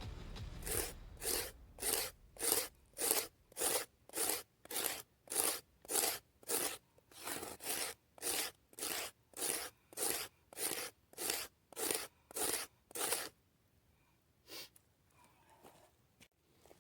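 A dry branch being scraped in steady, even strokes, a little under two a second, to shave off fine sawdust for fire tinder; the strokes stop about 13 seconds in, with one more shortly after.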